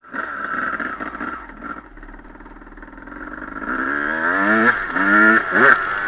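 Honda CR250 motocross bike's two-stroke single-cylinder engine running, easing off, then revving up hard twice in succession, its pitch climbing each time and dropping back in between as it accelerates.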